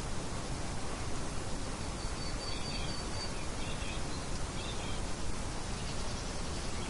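Steady light wind noise, with faint birds chirping a few times and a thin high whistle in the middle.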